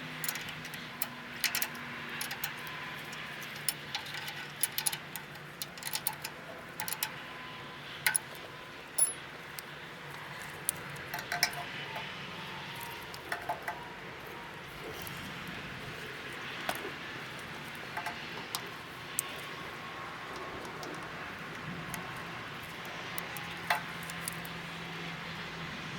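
Small metal parts and hand tools clinking and tapping at irregular moments, over a faint steady hum.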